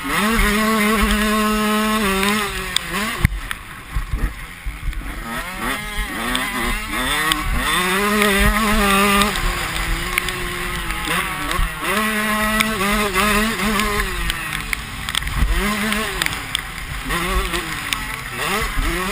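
Motocross bike engines revving, their pitch climbing and dropping over and over, briefly quieter about four seconds in.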